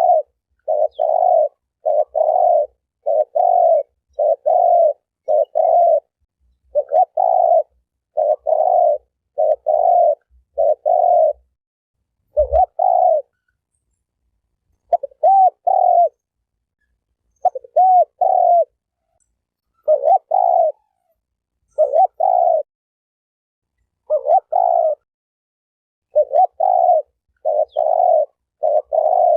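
Spotted dove (terkukur) cooing: a long run of short coos, each well under a second, repeating in close groups with brief pauses between them.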